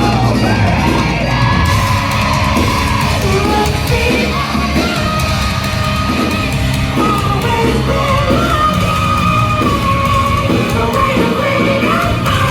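A rock band playing live and loud, with drums and heavy guitars under a vocal line that is partly sung and partly yelled.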